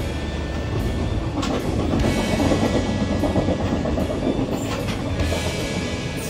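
Container freight train passing, its wheels clattering over the rail joints with a steady rumble.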